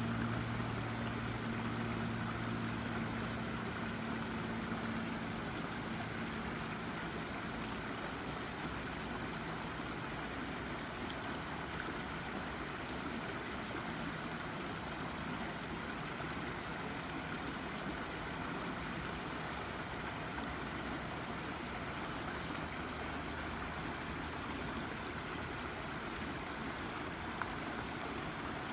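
A babbling brook running steadily over rocks, a constant rush and trickle of water. A low steady hum underneath fades out in the first six seconds or so.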